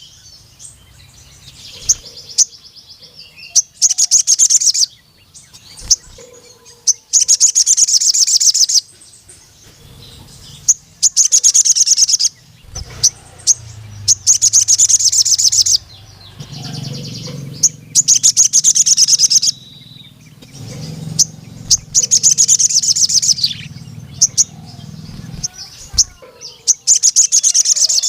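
Male sogon sunbird singing: loud, high-pitched, rapid trilled bursts of about a second each, repeated every couple of seconds, with a few short chirps between them.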